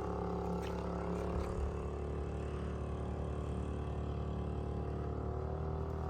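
An engine running steadily, a continuous drone of several held tones at an even level.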